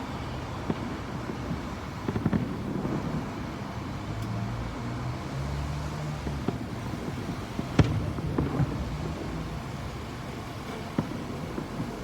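Fireworks going off in the distance: a scattering of sharp bangs and pops, the loudest about eight seconds in. Under them runs a steady low rumble.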